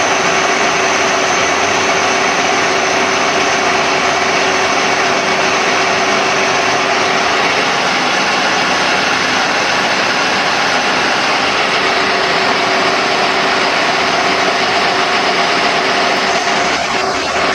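A machine or motor running steadily, a constant mechanical hum with a few fixed tones in it, breaking up just before the end.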